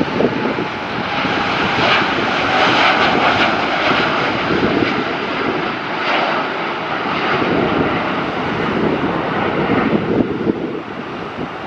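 Boeing 787-9's GEnx-1B turbofan engines at takeoff thrust: a loud, steady jet rush.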